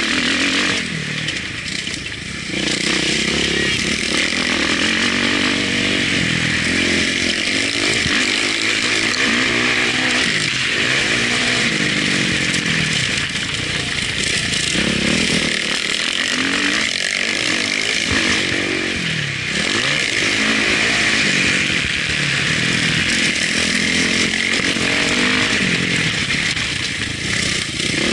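Motocross dirt bike engine revving hard, its pitch repeatedly climbing and dropping back with each throttle change and gear shift, over a constant rushing hiss, heard from an action camera mounted on the rider or bike.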